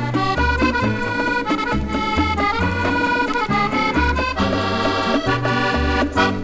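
French musette band music from an old 78 rpm gramophone record: accordion playing the melody over a bass line moving in even steps.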